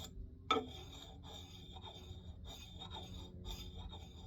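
A fine sharpening stone rubbed in short, repeated strokes along an axe's edge, about three a second, honing a fine micro-bevel to push the burr off the edge. A sharp click about half a second in.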